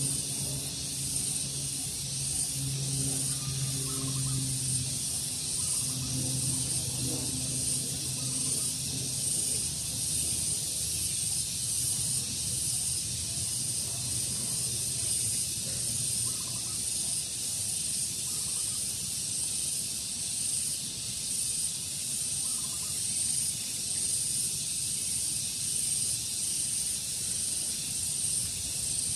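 Outdoor ambience: a steady high-pitched insect drone, with short faint bird calls now and then. A low engine hum sounds in the first third and fades out.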